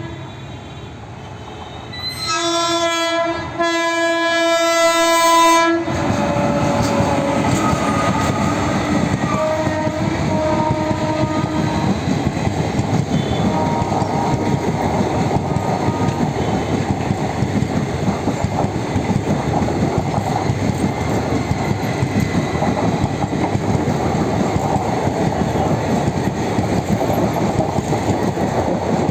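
Electric locomotive's horn sounding two blasts starting about two seconds in, then the locomotive and its passenger coaches pass close by with a loud steady rumble and clickety-clack of wheels over the rail joints.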